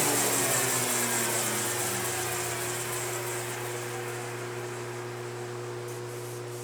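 Yates American J180 thickness planer coasting down after being switched off: its running tones fall in pitch over the first couple of seconds as it slows, fading away, while a steady low hum carries on underneath.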